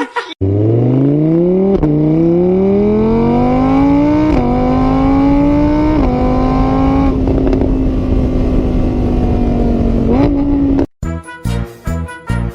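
Car engine accelerating up through the gears: its pitch climbs, drops back at each of three shifts, then holds steady at speed before a brief rise and an abrupt cut-off.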